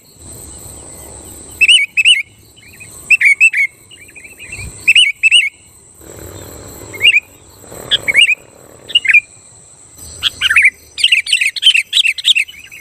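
Sooty-headed bulbul (kutilang) calling vigorously in short bubbly phrases of two or three notes, one phrase every second or so, then breaking into a busy run of chattering about ten seconds in. A faint steady high-pitched tone runs underneath.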